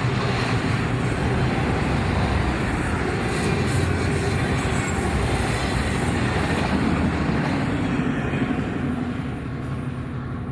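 A train passing, with a steady rumble of wheels on rail that begins to fade about nine seconds in.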